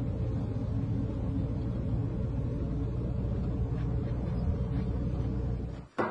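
Steady low rumble that cuts off suddenly near the end, followed at once by a sharp knock.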